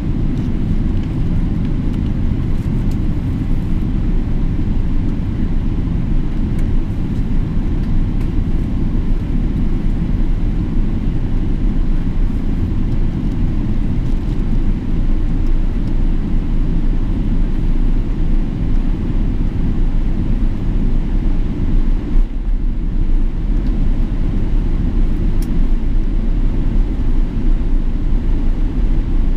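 Steady low rumble of a Boeing 777-300ER with GE90 engines. It is even and holds the same level throughout, with no rise such as a takeoff run would bring.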